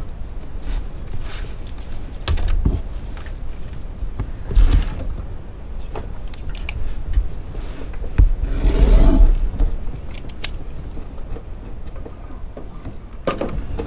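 Handling noise as a piece of fabric is fetched and moved about: cloth rustling with scattered knocks and bumps, loudest about eight to nine seconds in.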